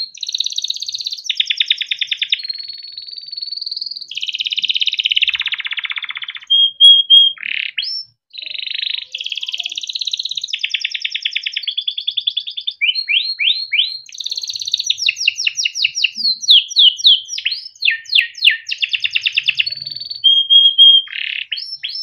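Yellow canary singing a long, continuous song of fast trills and rolls mixed with quick downward-sweeping whistled notes, breaking off briefly about eight seconds in.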